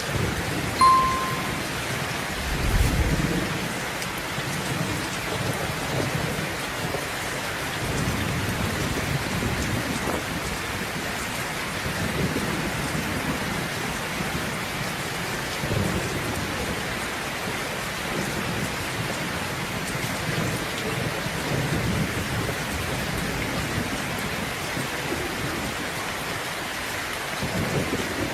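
Steady rain with thunder: a low rumble about three seconds in and fainter rumbles later on. A short, loud high tone sounds briefly about a second in.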